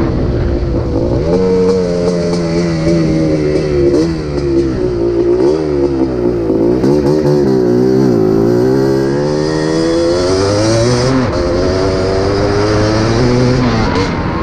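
Yamaha Tri-Z 250 three-wheeler's two-stroke single-cylinder engine being ridden hard, its pitch rising and falling again and again as the throttle is worked.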